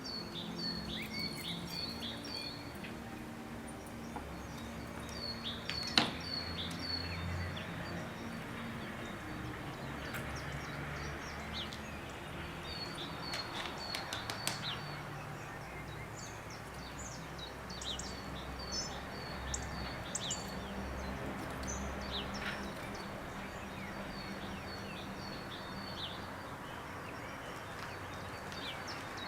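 Small songbirds singing, with several runs of repeated high, clear notes at about three a second and other short chirps, over a low steady outdoor rumble. A single sharp click comes about six seconds in.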